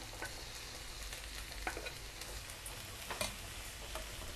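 Cooked red kidney beans tipped into a kadai of frying onions and ground coconut, green chilli and ginger, sizzling steadily as a wooden spatula stirs them, with a few light clicks.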